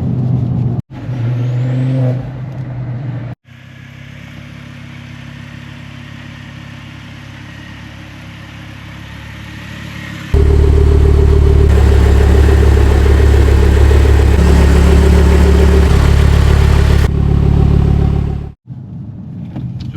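Engine and exhaust of a Stage 3 Mk2 Ford Focus RS, its turbocharged five-cylinder fitted with a big T38 turbo, driving in several cut-together clips. A quieter steady hum through the middle gives way after about ten seconds to a much louder steady engine note whose pitch steps a couple of times.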